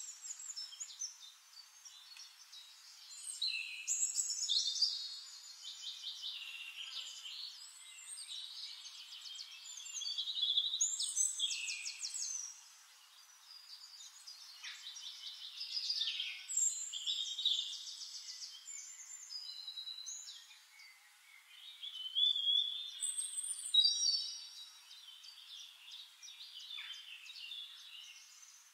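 Birdsong: several birds chirping and trilling, with fast repeated notes and short whistled glides, coming and going in bouts.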